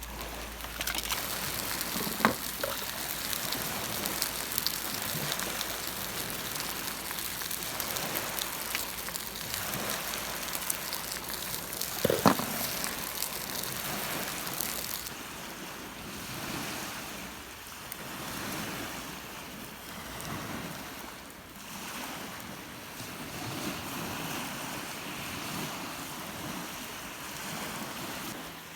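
Rough, wind-driven lake waves breaking and washing onto the beach, a steady rushing noise with wind; the rush thins out about halfway through. Two sharp knocks stand out over it, one early on and one near the middle.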